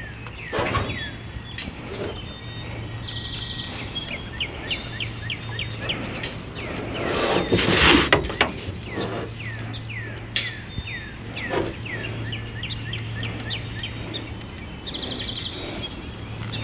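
Birds singing: runs of quick downward-sliding chirps and a couple of short trills, over a steady low hum, with a louder rustle of handling about halfway through.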